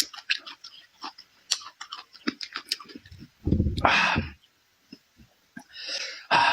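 Close-up mouth sounds of a person eating: rapid wet chewing and lip-smacking clicks, then a louder, rougher noise about three and a half seconds in and another near the end.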